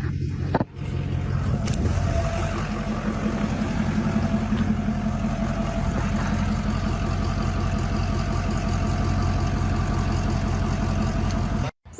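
An engine running steadily. It starts just under a second in and cuts off suddenly near the end.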